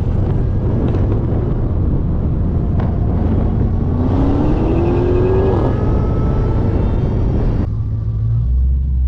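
A high-performance car engine pulling hard at speed with heavy wind and road noise, its pitch rising steadily through a gear over a couple of seconds around the middle. Near the end the sound changes suddenly to a low, steady engine rumble at slow rolling speed.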